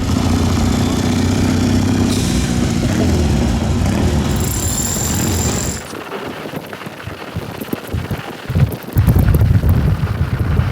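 Motorcycle engines running close by, a steady low rumble with a brief high squeal a little past four seconds in. The rumble drops away about six seconds in and comes back louder near the end.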